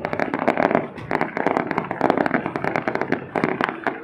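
Fireworks going off in rapid succession: a dense, unbroken stream of overlapping bangs and crackles.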